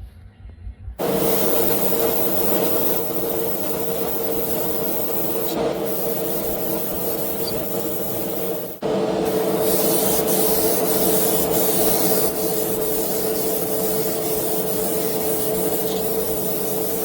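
A power tool running steadily: a loud hiss over a steady hum. It starts about a second in and briefly stops and restarts about nine seconds in.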